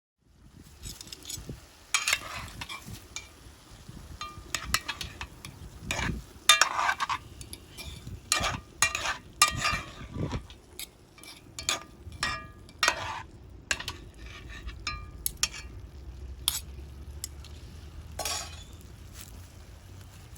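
A metal utensil stirring and scraping in a pan of frying chicken over a rocket stove, with irregular clinks and scrapes over a low sizzle.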